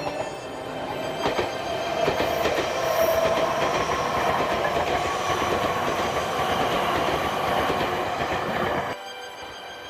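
Electric train passing at speed: wheels clattering over rail joints, with a steady hum from the traction motors. The sound drops suddenly near the end.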